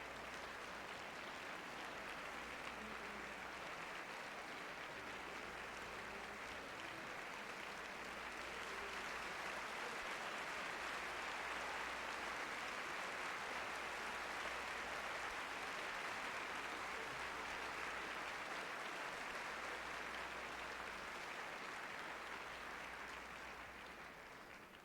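Concert hall audience applauding, a dense steady clapping that swells about a third of the way in and dies away near the end.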